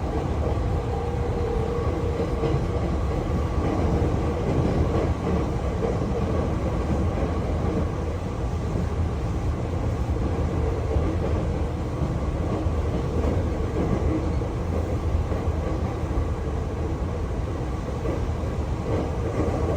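Hankyu train running at the station platform: a steady low rumble with a faint steady hum and no sudden events.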